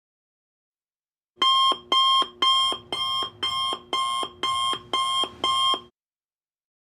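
Electronic alarm sound effect, like an alarm clock: nine evenly spaced shrill beeps, about two a second, starting about a second and a half in and stopping abruptly near six seconds.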